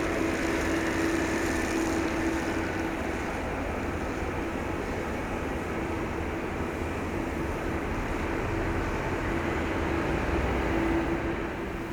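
Steady airport background noise: distant jet engines running with a low, even rush and a faint steady hum.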